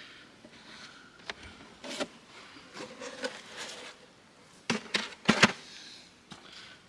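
Honeybees buzzing faintly, with scattered clicks and rustles of handling. The loudest is a cluster of sharp knocks about five seconds in.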